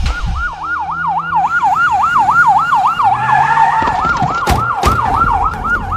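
Police car siren wailing in a fast up-and-down yelp, about three and a half cycles a second. Two short sharp knocks come about three-quarters of the way through.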